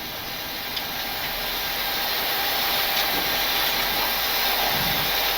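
Steady rushing airflow and engine noise in the cockpit of a Boeing 737-800 on approach, growing gradually louder.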